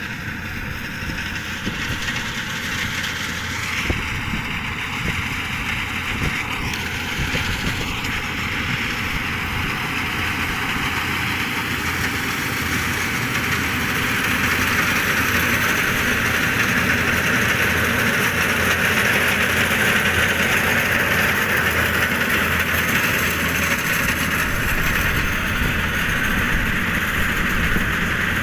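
Engine of a rice-harvesting machine running steadily, growing louder about halfway through.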